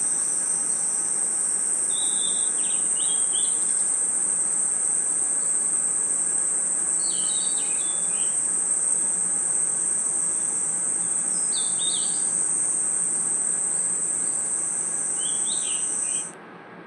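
Night insect chorus of crickets: a steady, loud, high-pitched shrill drone, with short groups of chirps every four seconds or so. About 16 seconds in, the drone cuts off suddenly, leaving a much quieter background.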